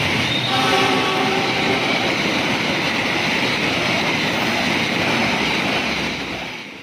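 Bima express train running through the station at speed on the main line: a steady, loud rush and rumble of wheels on rail. A few drawn-out tones fade early on, and the sound falls away near the end.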